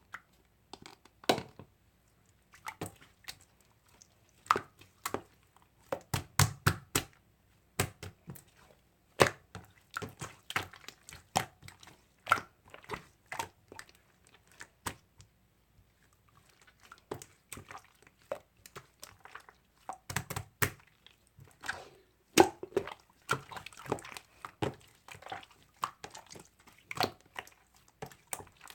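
Slime being squished, poked and folded by hand, giving irregular clusters of crackling pops and clicks, with a short lull about halfway through.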